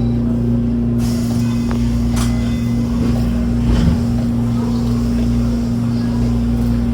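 Hanshin electric train's steady loud hum at a constant pitch, with a few light knocks about one, two and four seconds in.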